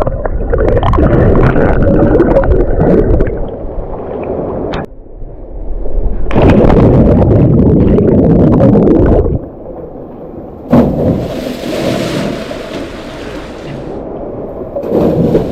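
Creek water rushing and gurgling close to the microphone, loud and full of low rumble, broken by several abrupt cuts; from about two-thirds of the way in, a brighter hissing rush of falling water.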